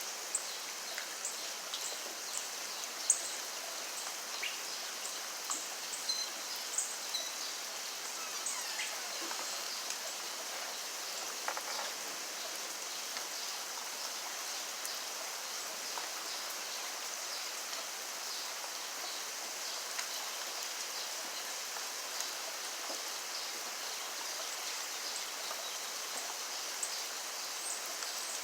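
Steady rainfall: an even hiss with many scattered drip ticks, a few sharper ones in the first several seconds.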